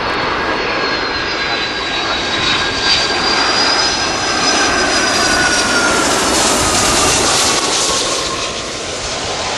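Boeing 757-200 airliner's twin turbofan engines, a loud steady jet roar with high fan whines that slowly slide down in pitch as the aircraft flies past, loudest a little past the middle.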